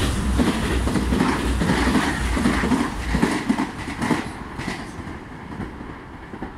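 Meitetsu Panorama Super electric train moving off, its wheels clacking over rail joints and points in an uneven beat about twice a second. The sound grows quieter after about four seconds.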